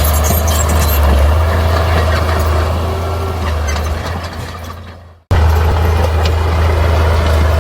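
Heavy earthmoving machinery running, a steady low diesel drone with metallic clatter over it. The sound fades away about four to five seconds in, then cuts abruptly back in at full level.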